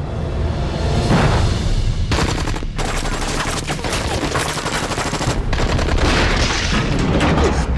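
A gunfight: volleys of rapid gunfire from several guns, shots coming thick and fast from about two seconds in, with a brief break before a second volley.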